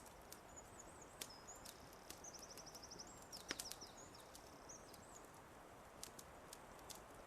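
Wood fire crackling faintly, with scattered sharp pops over a soft hiss, the loudest pops a little past the middle. A small songbird sings a high, warbling, trilled phrase from about half a second in until about five seconds in.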